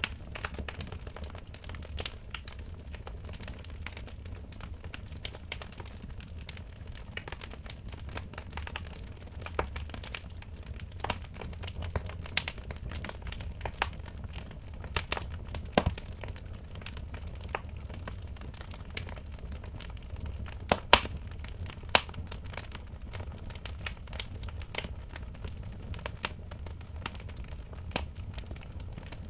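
Wood fire crackling in a fireplace: irregular sharp pops and snaps over a steady low rumble, with two louder pops about three quarters of the way through.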